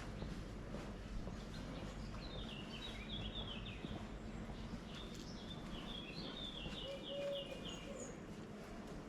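A songbird singing two phrases of quick, repeated chirping notes, the first about two seconds in and the second from about five and a half seconds, over steady outdoor background noise.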